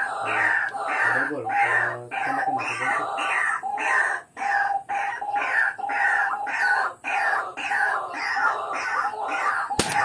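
A bird's harsh, falling calls repeated steadily, about two to three a second. Just before the end comes a single sharp crack: an air rifle shot.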